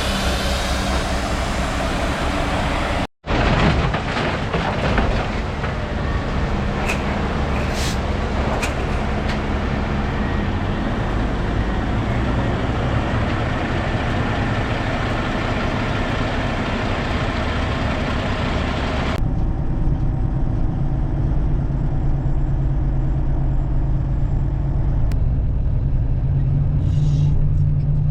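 Heavy truck's diesel engine running under a steady rushing noise. The sound breaks off for an instant about three seconds in. Near two-thirds of the way through the hiss drops away, leaving the engine's low drone.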